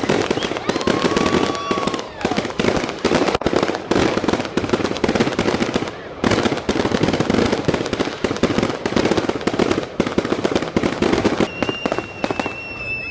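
Consumer fireworks crackling and popping rapidly, a dense run of small bangs with a brief break about six seconds in. A short high whistle sounds near the end.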